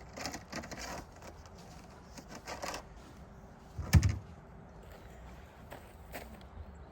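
A petrol chainsaw being handled and set down, not yet running: light clicks and scrapes, with one heavy thump about four seconds in.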